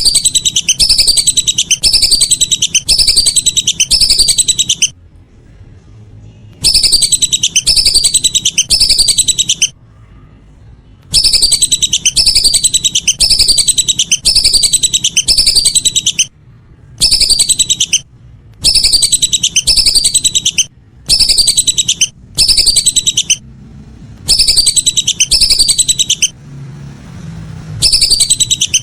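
Lesser whistling ducks (belibis) calling in a lure recording: loud runs of quick, repeated falling whistles. The runs last from one to several seconds and are broken by short pauses.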